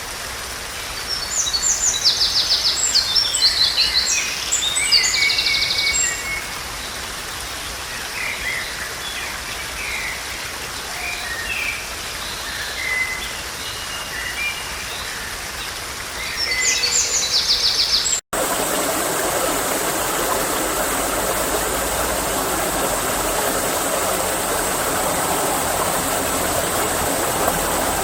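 Songbird singing in short, fast trilling phrases over a quiet forest background. About two-thirds of the way through it cuts abruptly to the steady rush of a stream.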